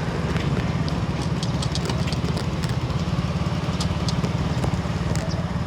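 Vehicle engine running steadily, a fast low pulsing throughout, with scattered faint clicks.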